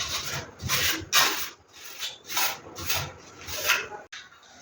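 Hand plastering tool rubbing across a plaster surface in repeated strokes, about seven strokes, roughly one every half second.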